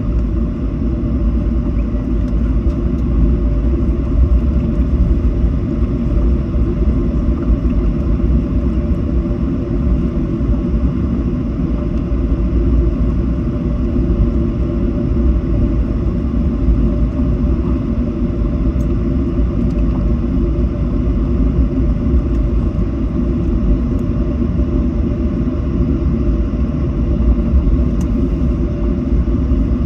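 Steady low rumble inside the cabin of a Boeing 737 taxiing after landing, with a few faint steady tones above it.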